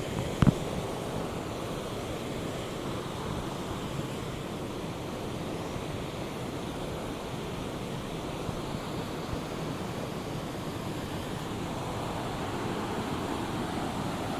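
Fast-flowing river water rushing steadily, with a brief sharp double knock about half a second in.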